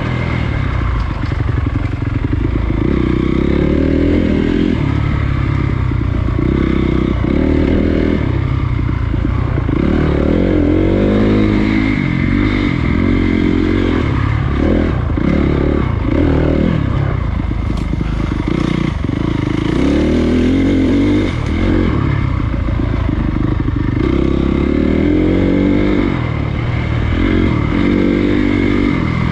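Honda CRF250 dirt bike's single-cylinder four-stroke engine running on a trail, its revs rising and falling again and again as the throttle is opened and closed.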